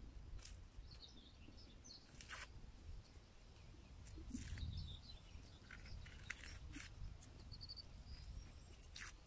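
Faint songbird chirps and short rapid trills over a low steady rumble, with several brief clicks scattered through.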